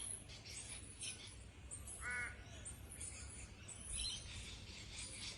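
Birds calling outdoors: one short, harsh, crow-like call about two seconds in, over repeated high-pitched chirping. A low rumble runs underneath.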